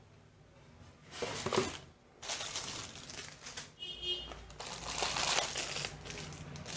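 Plastic packaging crinkling in bursts as boxed accessories are handled and unwrapped, starting about a second in, with a brief high squeak near the middle.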